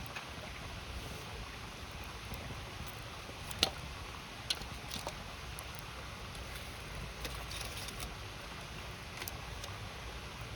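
Campfire crackling, with a few sharp pops of burning wood, the loudest about three and a half seconds in, over the steady rush of a river.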